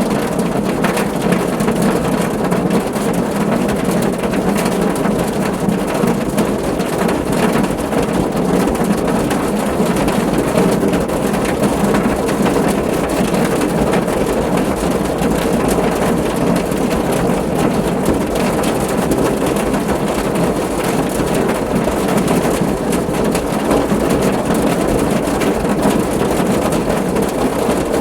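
Steady rain drumming on a car's roof and body, a dense even patter of drops with no letup.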